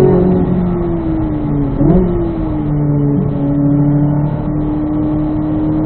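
Car engine heard from inside the cabin while slowing under braking, its note falling in pitch, with a quick rev blip about two seconds in as it downshifts from third to second gear. It then holds a steady lower note through the corner.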